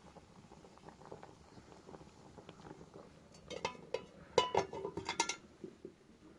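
Dishes and utensils clinking together: a quick run of ringing clinks about three and a half seconds in, lasting about two seconds, over a quiet background.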